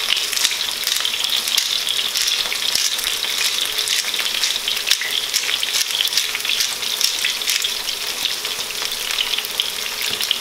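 Olive oil sizzling and crackling around thick cylinders of potato frying in a frying pan as they brown: a steady hiss with many small pops throughout.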